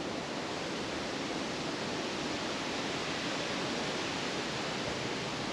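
Steady hiss of distant highway traffic.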